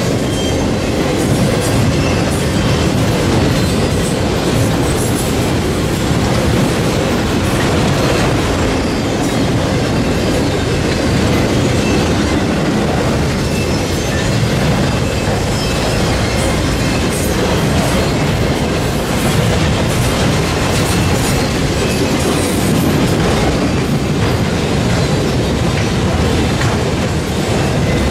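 Freight train cars rolling steadily past: continuous wheel rumble and clickety-clack over the rail joints, with faint intermittent wheel squeal.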